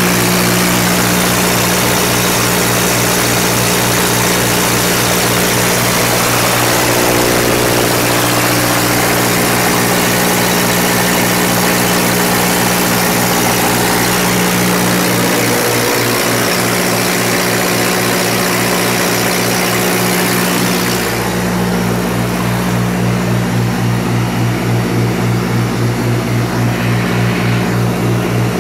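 Kohler natural gas generator set with a Ford LRG-423 four-cylinder engine running steadily at constant speed. About two-thirds of the way through, the hiss drops and the sound takes on an even throb, about two pulses a second.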